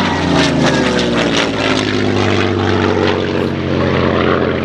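Propeller-driven Second World War fighter with a V12 piston engine flying past; its engine note drops in pitch during the first second or so as it goes by, then runs steadily.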